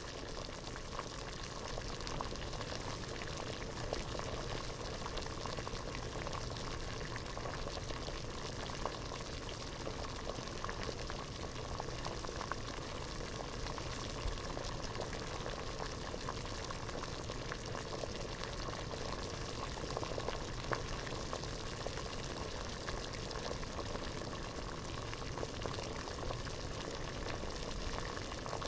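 Water boiling hard in a pot: a steady bubbling with many small pops and splashes throughout.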